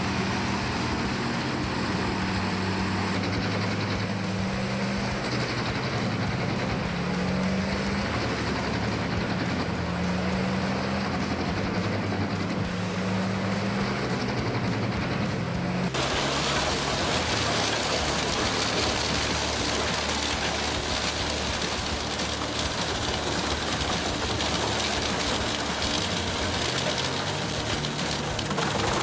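Heavy wood-processing machinery: a diesel-type engine running steadily with a low hum. About halfway through, the sound cuts abruptly to a louder, even, rushing and grinding noise.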